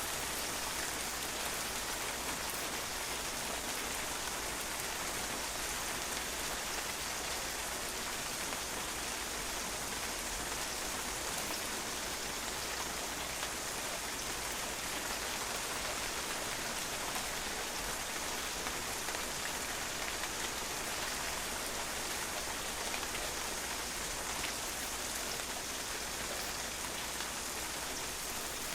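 Steady rain falling on a patio, drops pattering on the hard surface in an even hiss with no let-up.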